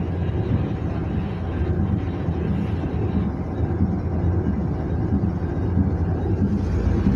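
Ship's diesel engine running steadily at dead slow ahead, a low, even rumble and hum heard from on deck. The deepest part of the rumble swells near the end.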